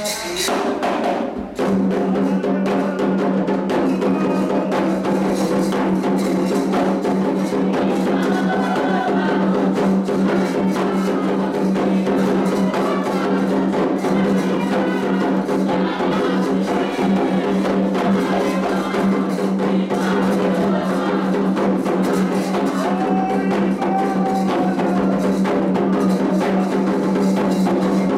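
Candomblé atabaque drums playing a fast, dense rhythm for Oxum, with voices singing over them. A steady low tone sets in about two seconds in and holds under the music.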